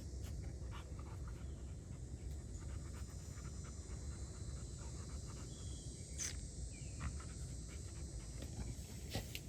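A dog panting steadily close by, with a couple of small clicks in the second half.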